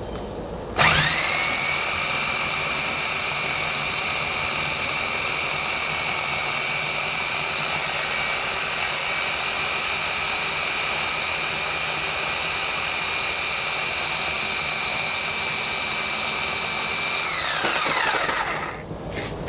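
High-speed power tool motor starting about a second in, running at a steady high whine with little change, then switched off near the end and winding down with falling pitch.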